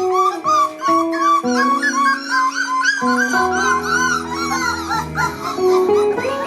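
One-month-old Border Collie puppies whining and yipping in rapid, high, rising-and-falling squeaks, over background music with held notes.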